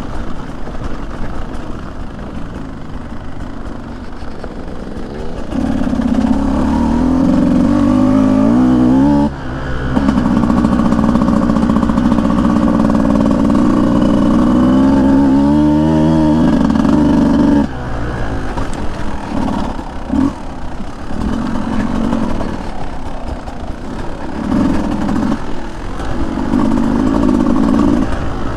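Beta 200 two-stroke dirt bike engine under changing throttle. It runs low at first, revs up strongly about five seconds in with a brief dip near ten seconds, holds high, then backs off about two-thirds of the way through to short bursts of throttle.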